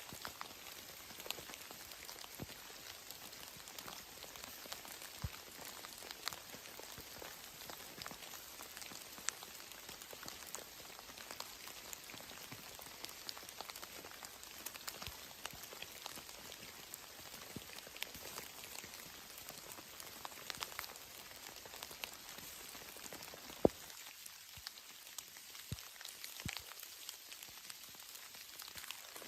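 Steady rain with many small drops ticking irregularly, and one sharper, louder tick about three-quarters of the way through.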